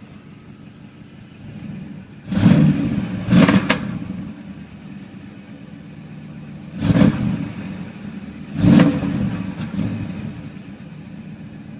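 1994 Chevrolet Impala SS's 5.7-litre LT1 V8 idling, with the throttle blipped four times: two quick revs about two and a half seconds in, then two more a few seconds later, each dropping straight back to idle.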